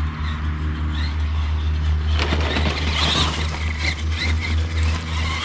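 Electric RC monster truck (Axial SMT10 Grave Digger) driving on wet gravel: a high motor whine rises and falls with the throttle, and about two seconds in its tyres scrape and spray the gravel. A steady low hum runs underneath.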